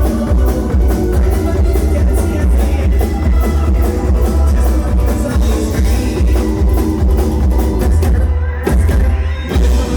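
Live bluegrass-style band playing a rock cover, with a drum kit, strings and a heavy bass. There is a brief stop in the music about eight and a half seconds in before it comes back in.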